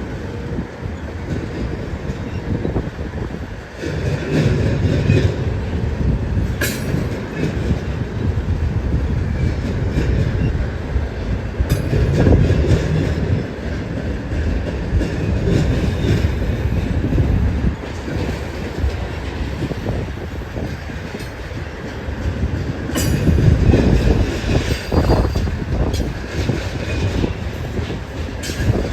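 BNSF freight train rolling past: a continuous heavy rumble of wheels on rail with a few sharp clanks, and wind gusting on the microphone in loud surges.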